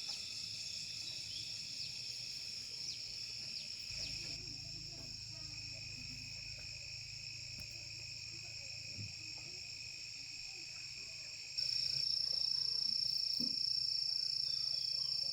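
Steady high-pitched insect chorus, suddenly louder about twelve seconds in.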